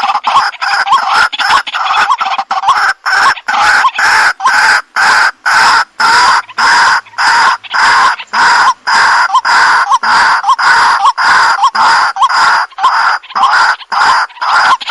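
White-breasted waterhen (dahuk) calling over and over, loud repeated harsh notes at about two a second without a break. This is the call used to lure the bird.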